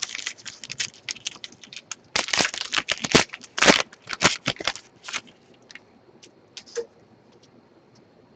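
A trading card pack wrapper being torn open and the cards handled: a dense run of crinkles and scrapes for about five seconds, then only a few scattered clicks.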